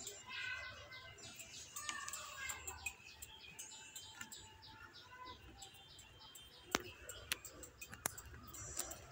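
Faint bird chirping: many short high chirps in quick succession, with a few sharp clicks near the end.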